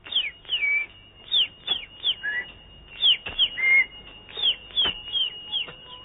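Bird chirping: about a dozen short, high, falling chirps in ones, twos and threes, over a faint steady high tone.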